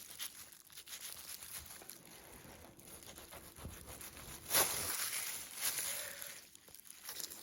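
Knife cutting and trimming cured ham meat along the bone: faint irregular slicing and scraping, with a louder scrape about four and a half seconds in.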